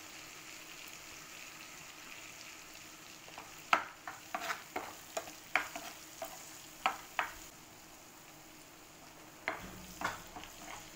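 Spice masala frying in oil and a little water in a nonstick pan, sizzling and bubbling steadily on a low flame. A steel spoon scrapes and taps against the pan as the spices are stirred in, in a quick run from about four seconds in and again briefly near the end.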